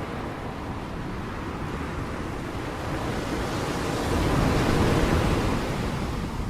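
Ocean surf breaking on a shore: a wave builds and crashes about four seconds in, then washes back.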